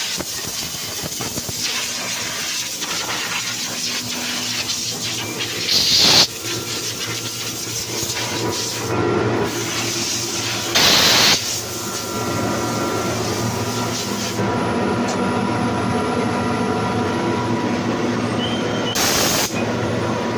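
20 HP, 8 bar industrial air compressor running steadily, a little louder from about halfway through. Three short, loud blasts of hissing air break in, near 6, 11 and 19 seconds.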